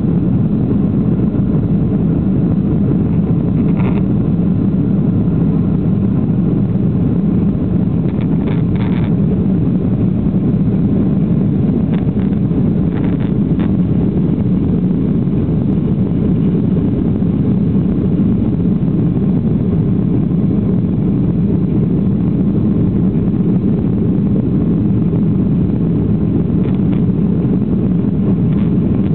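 Steady cabin roar of a Boeing 737-800 in flight: its CFM56-7B turbofan engines and the airflow over the fuselage, heard inside the cabin as an even, low rumble that does not change.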